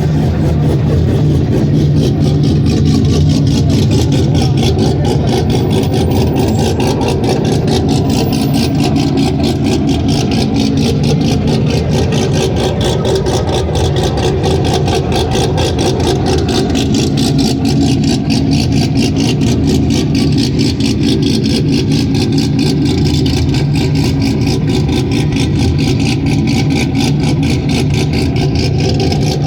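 Car engine running steadily at low speed, a deep, even exhaust note that holds without revving up.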